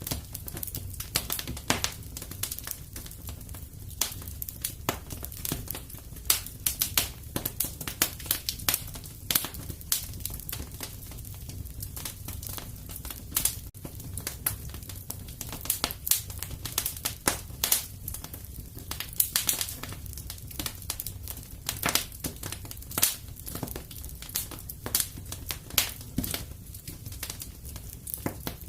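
Wood fire burning in a fireplace: irregular sharp crackles and pops, several a second, over a steady low rumble of flame.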